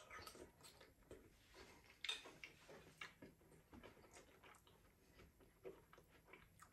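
Faint chewing of a mouthful of chicken: soft, irregular wet mouth clicks, with a slightly stronger click about two seconds in.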